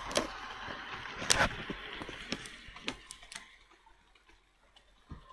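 Handling noise as a camera is moved and set up: irregular clicks and light knocks, the loudest about a second in, thinning out to near quiet, with a soft thump near the end.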